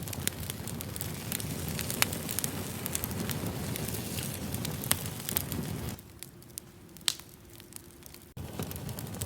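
Wood campfire crackling, with sharp pops over the steady low rush of the flames. It goes quieter for a couple of seconds just past the middle, then picks up again.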